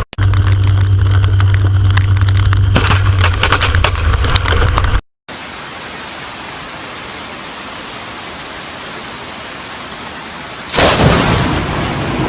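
Thunderstorm sounds in two cuts. First a heavy low rumble with crackling, which stops abruptly about five seconds in. Then steady rain hiss, broken near the end by one loud thunderclap that fades away.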